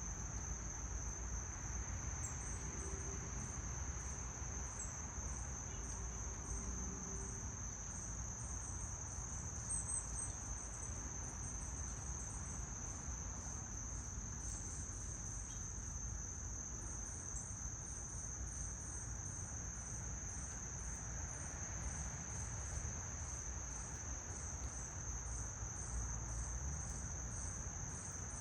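Insects, crickets by their sound, trilling in one steady high-pitched drone. Over it runs a second pulsed chirping at about two chirps a second, clearest in the latter half, with a low rumble underneath.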